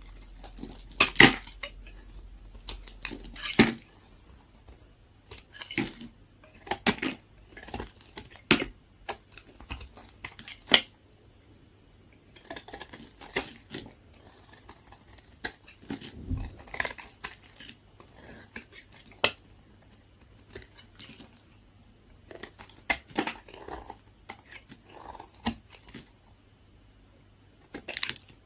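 Very dry leftover soap being cut: crisp cracks and crunches in irregular clusters of several strokes, with short pauses between.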